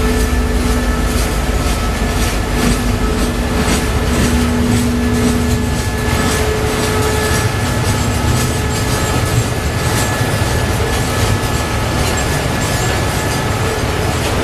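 Freight train of tank wagons rolling past, the wheels clicking over rail joints under a steady rumble. Thin steady squealing tones from the wheels on the rails run through it, some dying away about halfway through.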